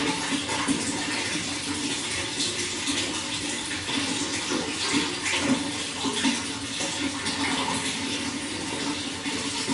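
Running water flowing steadily, a continuous rushing splash with small irregular spatters throughout.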